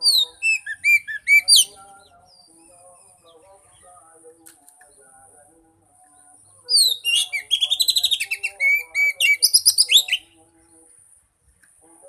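Oriental magpie-robin (kacer) singing: a short burst of loud, sliding whistled notes at the start, then a longer, louder phrase about seven seconds in with a fast run of notes. Fainter warbling of other birds and a steady high hiss run underneath.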